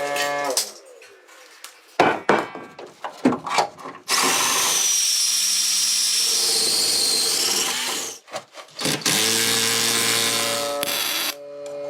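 Power tools running in several bursts. Between runs there is scraping and knocking. One run from about four to eight seconds is steady and noisy, with a high wavering whine; a pitched motor hum returns near the end.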